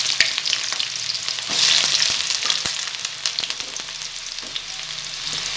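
Chopped onion sizzling in hot oil in a pan, with short clicks and scrapes as it is stirred. The sizzle swells again about a second and a half in.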